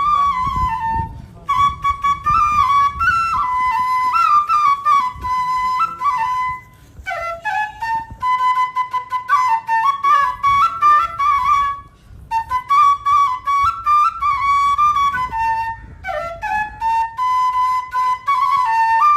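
Flute playing a flowing melody in phrases, with short breaks between phrases about every four to five seconds.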